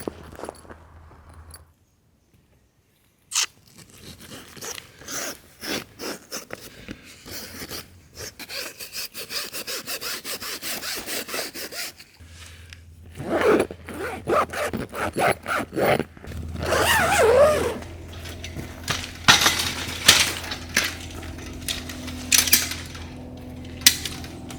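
Handling noises from setting up camp gear: repeated scrapes and knocks in short edited bursts, some coming in quick rhythmic strokes.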